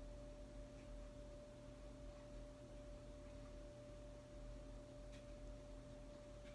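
Near silence with a faint steady hum at one pitch, and a couple of faint ticks.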